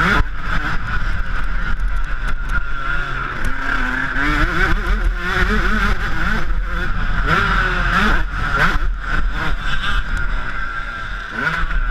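Yamaha YZ125 two-stroke motocross engine revving hard, its pitch climbing and dropping back again and again, with steady wind noise on the microphone and scattered sharp knocks.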